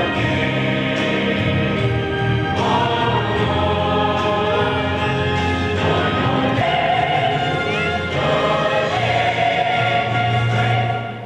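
A choir singing held chords, the notes changing every second or two.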